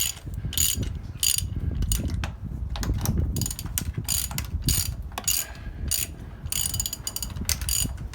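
Socket ratchet clicking in repeated short bursts as it is swung back and forth, working a rusted exhaust manifold nut loose, with a low grinding rumble underneath.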